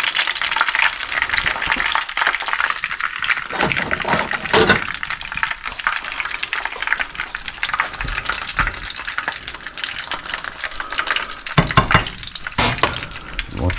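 Breaded bluefish cake shallow-frying in hot oil in a frying pan, a steady crackling sizzle. Near the end a couple of sharp knocks as the wire cooling rack and spatula are handled on the stovetop.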